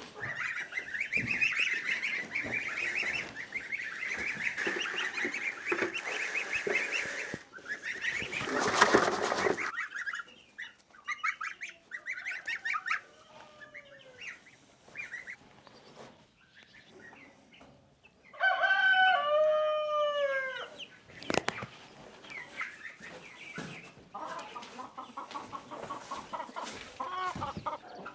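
Farmyard chickens clucking and chattering, with a short burst of noise about nine seconds in. A rooster crows once, loudly, about two-thirds of the way through.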